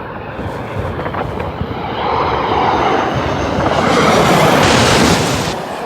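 Jet airliner passing low overhead. Its engine noise swells to a peak about four to five seconds in, then eases off.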